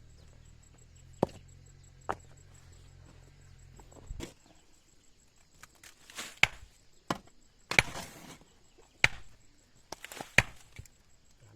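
Tool strikes on wood, about eight sharp chops or knocks at uneven spacing, coming more often in the second half. A faint low hum stops about four seconds in.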